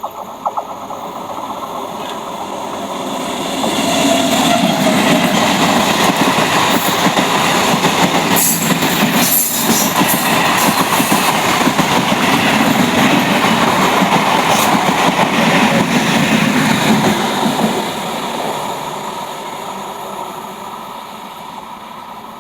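Indian Railways train passing by: its rumble builds over the first few seconds, stays loud for about fourteen seconds, then fades away.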